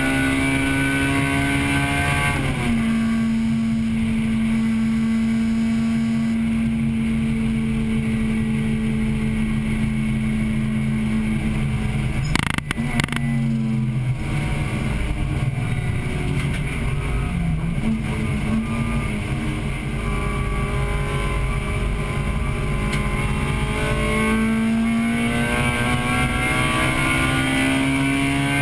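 1998 Acura Integra Type-R's four-cylinder engine under racing load, heard from inside the car. Its pitch climbs and falls sharply at an upshift about two seconds in, then holds level for about ten seconds, with a sharp knock near the middle. It then sags as the car slows and climbs steadily again, dropping once more right at the end.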